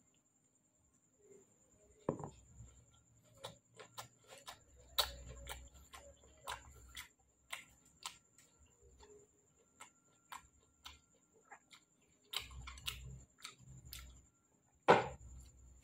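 Mouth sounds of eating ripe jackfruit bulbs: irregular wet lip smacks and clicks with soft chewing between them, the loudest smack coming near the end.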